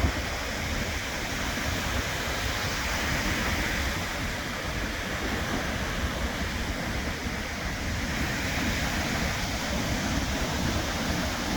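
Pacific Ocean surf: a steady wash of breaking waves, with no single crash standing out.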